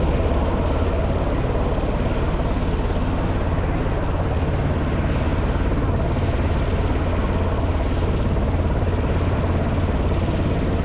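Helicopter in flight, its rotor giving a steady, fast throb over a spread of engine and air noise.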